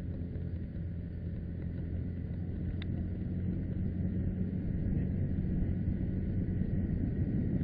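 Steady low rumble of a car's engine and road noise while driving, slowly getting a little louder, with a single sharp click about three seconds in.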